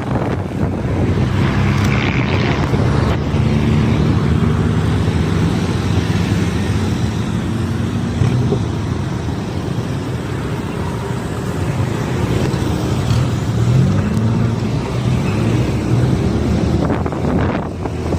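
A vehicle engine running on the move, its pitch rising and falling with speed, under rushing wind on the microphone.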